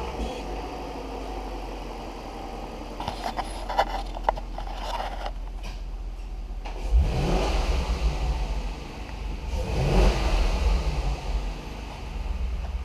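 2002 Ford Thunderbird's 3.9L V8 engine running steadily, then revved up twice, about seven and ten seconds in. A few sharp clicks come about three to four seconds in.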